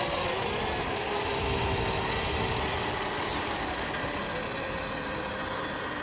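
A dirt bike running, with a motor tone that drops in pitch early on and then holds steady while the sound slowly fades.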